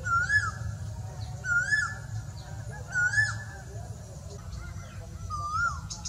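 Large black, long-tailed bird calling: four short calls that rise and then drop in pitch, about a second and a half apart, the last one fainter. A steady low rumble runs underneath.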